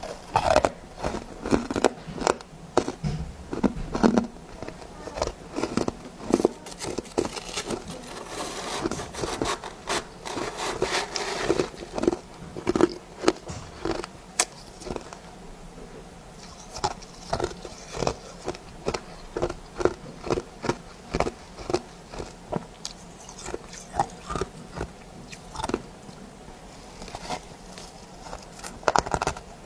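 Close-up crunching of a person biting and chewing powdery soft ice scraped from freezer frost, in quick irregular crunches with a short lull about halfway through.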